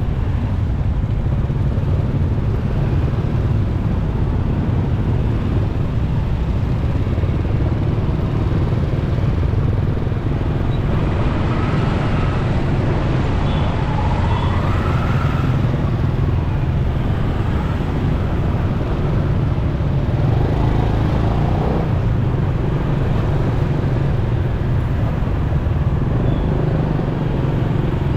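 Riding a motorcycle in road traffic: a steady low rumble of engine and wind noise on the rider's microphone, with brief rising and falling whines from engines about halfway through.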